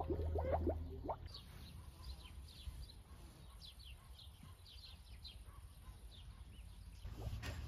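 Small birds chirping: many short, high chirps that slide downward, in quick succession. A low hum with rattling cuts off about a second in, and there is one sharp click near the end.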